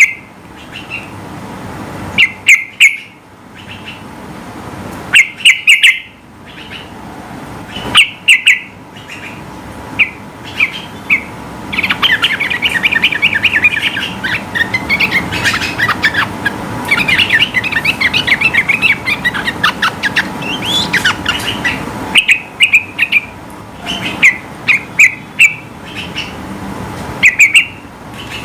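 Yellow-vented bulbul (trucukan) singing: loud short phrases of quick notes repeated every second or two, with a long, fast, rapid-fire run of notes in the middle lasting about ten seconds.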